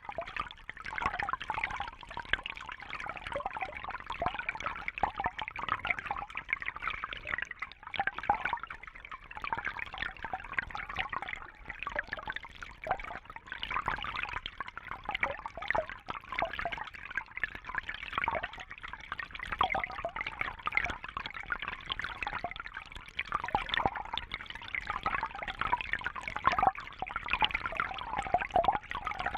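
Fish tank water trickling and bubbling without a break, a busy patter of many small drips and splashes.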